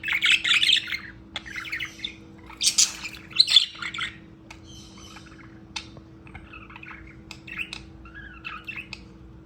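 Pet budgerigars chirping and squawking: loud bursts of chatter in the first few seconds, then softer, scattered warbling with a few sharp clicks.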